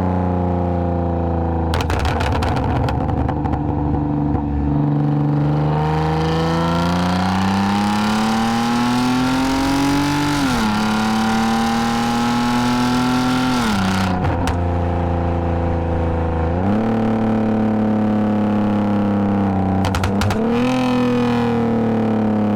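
2010 Lexus IS250 AWD's 2.5-litre V6 pulling through a full aftermarket exhaust with valved mufflers. The note climbs steadily, drops sharply at a shift about ten seconds in, drops again near fourteen seconds, then jumps back up near seventeen seconds as it is revved through a downshift. Brief crackles come through around two, fourteen and twenty seconds.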